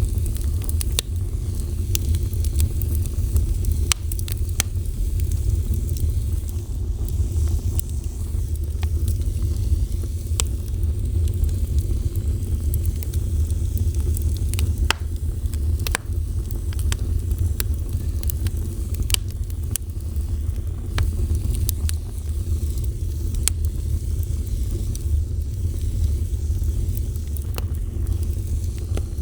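Fire burning: a steady low rumble under frequent, irregular sharp crackles and pops.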